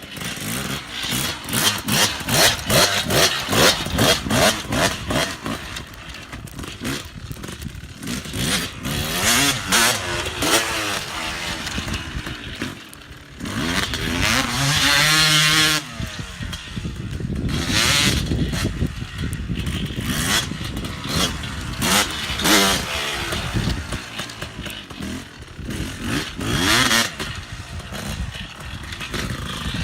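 Dirt bike engine revving up and falling back again and again as it is ridden around a backyard motocross track, with a longer held rev about halfway through.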